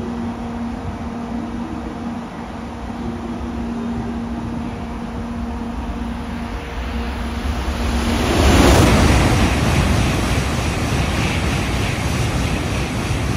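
N700A Shinkansen train approaching along the platform. About eight seconds in, its loud rush begins suddenly as it reaches and sweeps past, and holds until the end, when it starts to fade.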